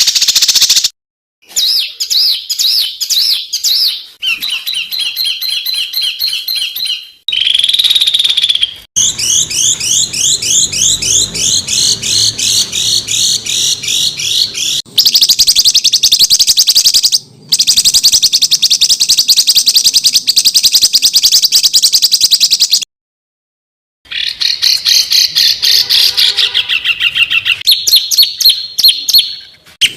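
Songbird masteran recordings: a string of edited clips of songbirds giving fast, dense runs of rapidly repeated harsh chattering notes (the 'tembakan' phrases prized in song contests). The clips change abruptly, with a few short gaps of silence between them.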